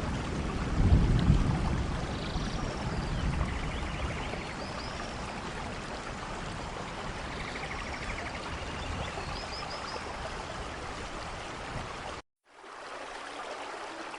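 Steady rain falling, with a low rumble about a second in and a few faint high chirps. The sound drops out for a moment near the end, then the rain resumes more quietly.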